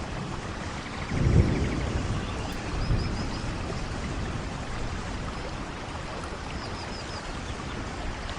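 Steady rainfall, with a short low rumble swelling about a second in and a weaker one a couple of seconds later.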